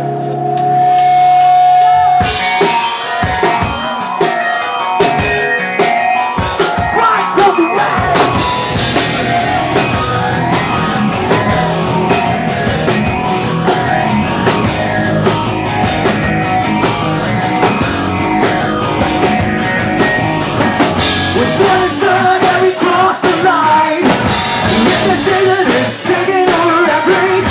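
Rock band playing live, the instrumental intro of a song: a held chord for about two seconds, then drums come in with hits and the full band of drums and guitars plays on.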